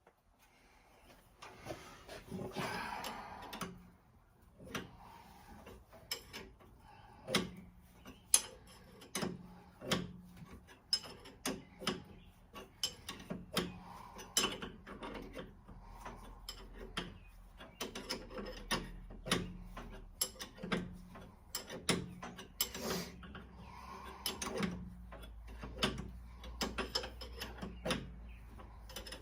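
Ratchet wrench and metal hand tools working at the front of a Ford 302 V8 while the harmonic balancer is being taken off: many irregular sharp ratchet clicks and metal clinks, with a brief scraping rattle near the start.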